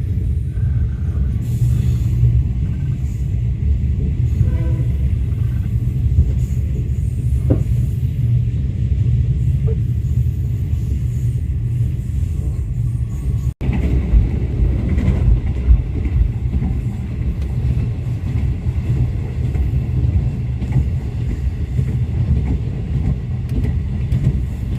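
Steady low rumble of a moving diesel-hauled passenger train running along the rails. It breaks off for an instant about halfway, then carries on.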